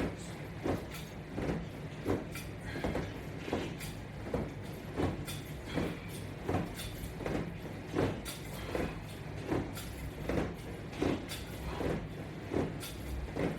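Resistance band straps on a Latch Bar attachment creaking and swishing in a steady rhythm, about one stroke every three-quarters of a second, as the exercise is repeated, over a low steady hum.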